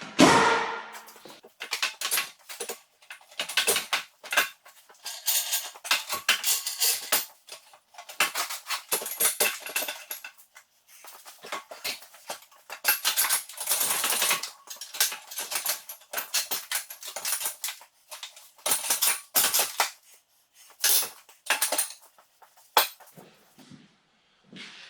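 Rapid, irregular metallic clanks, clicks and knocks of hand tools and tractor parts being worked on, in quick clusters with short gaps.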